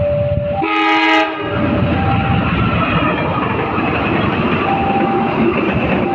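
A passing train sounds a short horn blast about a second in, followed by the steady rumble and clatter of its wheels on the rails.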